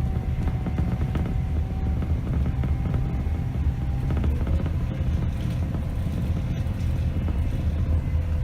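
Scania K270 bus's diesel engine running on the move, a steady low rumble from the driver's position with a faint whine that drifts slowly in pitch and light rattles over it.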